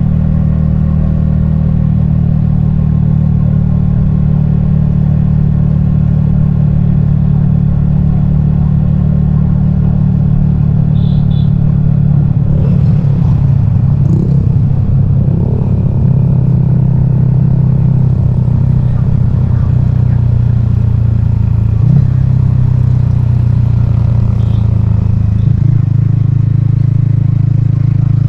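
Yamaha XSR155's single-cylinder engine running steadily, heard from the rider's helmet, with a nearly constant low note and only slight changes in pitch midway.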